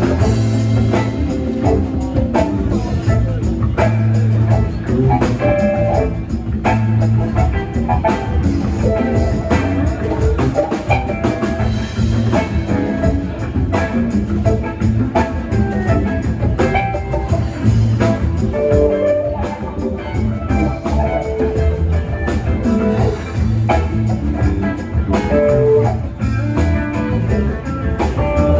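Live band playing an instrumental passage, with guitar over a steady drum-kit beat.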